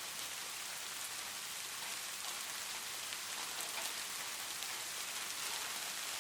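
Light rain falling steadily, a soft, even hiss with many small drop patters.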